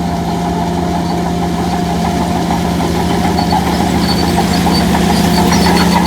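Heavy diesel engine of an earthmoving machine running steadily under a rattling clatter. A squeaky metallic clatter builds toward the end.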